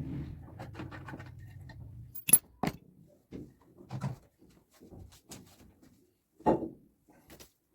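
Work noises of tools and parts being handled: a low rough rumble for the first two seconds, then two sharp knocks about two and a half seconds in, followed by scattered clicks and clatter.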